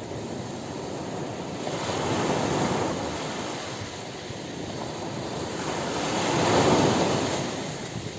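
Ocean surf washing onto a beach: two waves swell and recede, the second, near the end, the louder.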